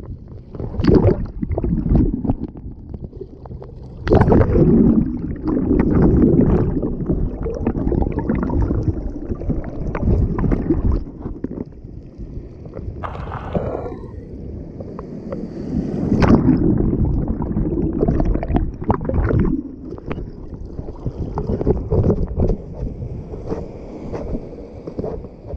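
Wind buffeting the microphone over water sloshing and splashing against a small sailing dinghy, in uneven gusts and surges with sharp splashes throughout.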